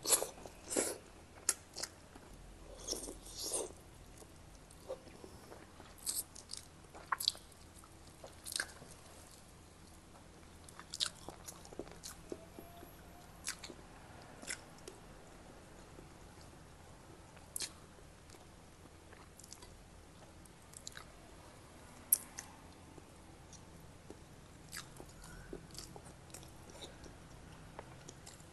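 Close-miked eating sounds of a person chewing fish and rice from a sour soup: a quick run of chewing in the first few seconds, then quieter chewing with scattered short sharp clicks.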